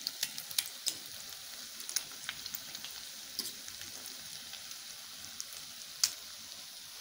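Egg- and flour-coated minced-meat kebabs deep-frying in hot oil: a steady sizzle dotted with small pops and crackles. The crackles are busiest in the first second, and one sharper pop comes about six seconds in.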